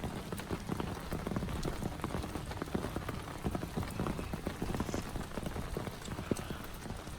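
Heavy rain falling steadily, with many close, irregular drops hitting a surface near the microphone.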